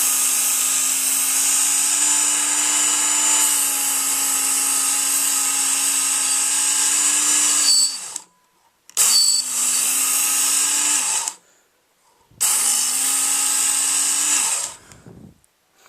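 Work Sharp electric belt knife sharpener running as a knife blade is drawn over its green abrasive belt: a steady motor whine with a bright grinding hiss. One long pass of about eight seconds, then two shorter passes, each stopping suddenly.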